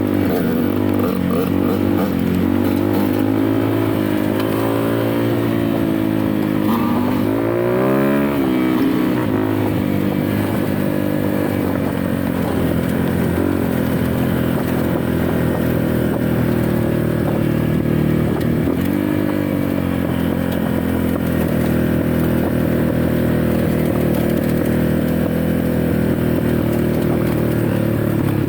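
Off-road dirt bike engine running under way, the revs swinging up and down with throttle changes, with a quick rise about eight seconds in and another around nineteen seconds, then holding fairly steady.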